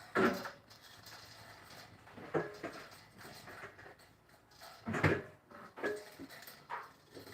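Birds calling: about five short, harsh calls, the loudest near the start and about five seconds in.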